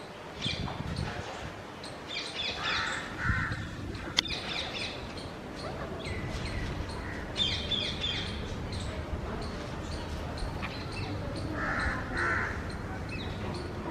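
Rose-ringed parakeets calling in quick clusters of short, high calls that come again and again, with two short pairs of lower calls, once about three seconds in and once near the end.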